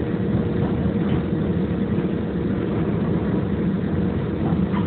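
Chicago 'L' Green Line rail car running, a steady rumble heard from inside the car, with a faint steady hum.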